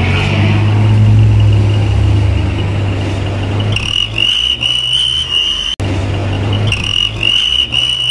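Mitsubishi L300 pickup's engine running with a whistle device fitted in its exhaust, giving a steady high turbo-like whistle, the 'ngir ngir' sound, over the engine hum. The whistle becomes loud about halfway through, breaks off briefly, then returns.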